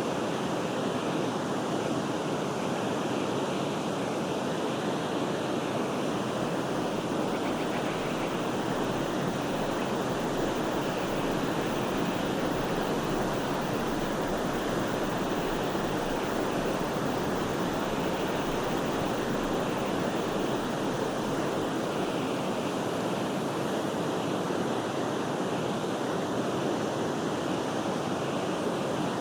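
Forest river water flowing in a steady, even rush that holds unchanged throughout.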